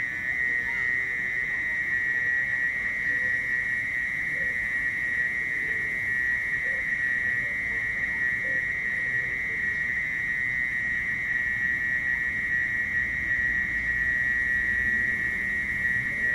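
Mole cricket (orong-orong) singing: one continuous, high-pitched trill held at a steady pitch, with faint short chirps of other animals underneath.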